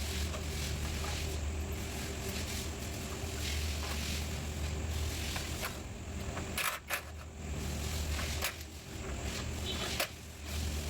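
Hand tools working on metal bolts and brackets: scattered clicks and knocks, a few close together about seven seconds in and another near ten seconds, over a steady low hum.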